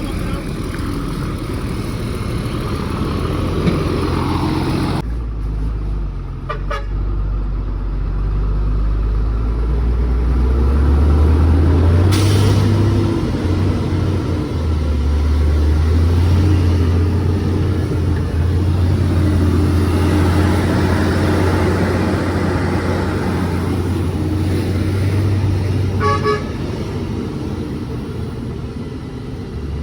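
Heavy truck engine running loud and low, building up as the truck moves off with its load, with a vehicle horn tooting.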